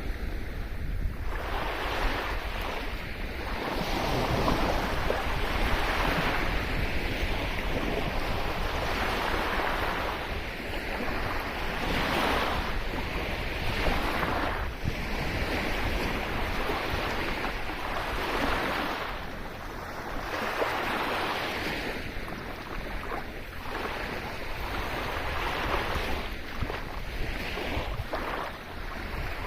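Sea waves washing onto a shore, a steady surf noise that swells and falls back every few seconds, with some wind on the microphone.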